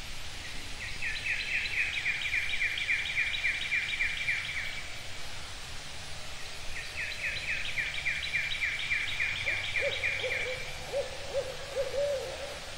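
Outdoor nature recording: a small bird's trill of rapidly repeated high notes, sung twice, each lasting about four seconds. Near the end, a barred owl gives a series of short, lower hoots. A steady background hiss runs underneath.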